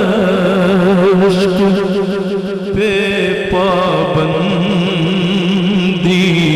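A man's voice singing an Urdu naat, holding long drawn-out notes with a wavering vibrato, stepping to a higher note about halfway through.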